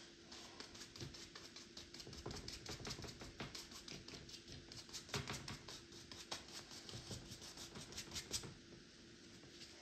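Paintbrush rapidly tapping and scratching against a canvas, several quick strokes a second, stopping about a second before the end.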